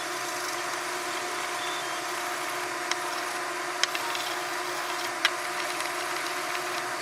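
Small electric power tool motor running steadily, with three sharp clicks near the middle.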